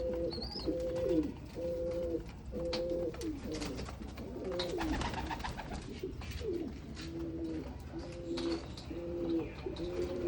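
Several domestic pigeons cooing over one another, one rolling coo after another without a break, with scattered sharp clicks and taps among them.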